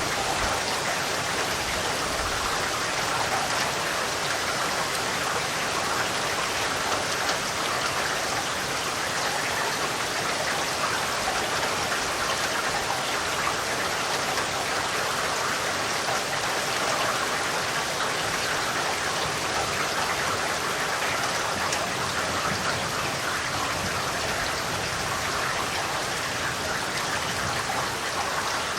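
Steady rain falling, an even hiss with fine, dense patter of drops on a surface.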